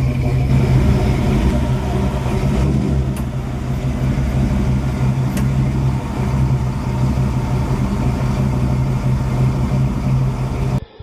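A car engine running steadily at idle, its sound mostly low-pitched, with a couple of faint clicks; it cuts off suddenly near the end.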